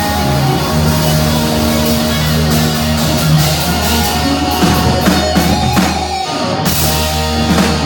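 Live heavy metal band playing, with distorted electric guitars, bass and drum kit. Held guitar notes give way, about halfway through, to a run of hard drum and cymbal hits.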